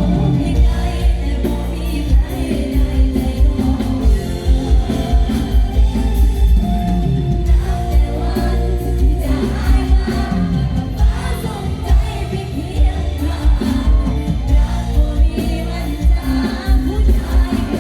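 Live band music with a young woman singing over a heavy, pulsing bass beat.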